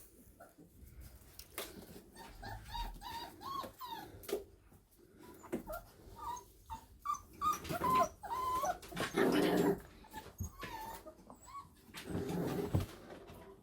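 Five-week-old Staffordshire bull terrier puppies squealing and whimpering in short high cries while they growl and tussle over a shoe. The louder rough growling comes about nine seconds in and again near the end.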